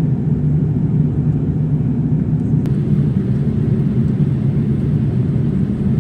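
Steady rumble of a Boeing 787-8 airliner in flight, heard from inside the passenger cabin, with a faint click about halfway through.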